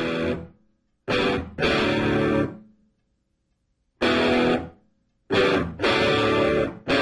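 Background music: distorted electric guitar chords played in short stabs, each cut off abruptly with silence in between.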